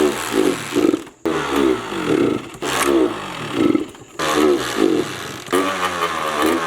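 Honda CR80 two-stroke dirt bike engine being kicked over again and again, sputtering in bursts about every one and a half seconds without staying running: the engine is waterlogged after being submerged.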